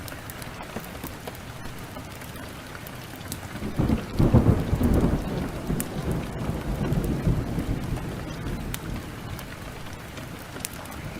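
Heavy rain falling steadily, with a roll of thunder that breaks about four seconds in, is loudest for a second or so and then rumbles away over several seconds. Sharp little crackles from a wood fire sound throughout.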